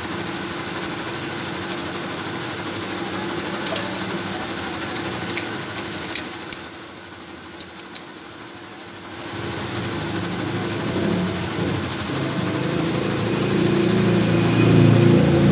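A machine running with a steady hum. Several sharp clicks come about five to eight seconds in, and the hum drops away for a couple of seconds. Then it starts up again and grows steadily louder.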